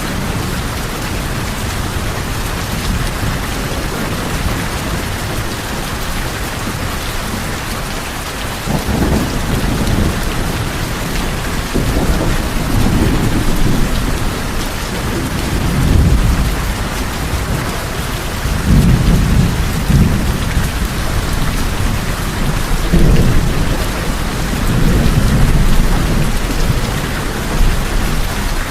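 Steady heavy rain falling on tin roofs, with thunder rumbling low in a series of rolling swells from about a third of the way in.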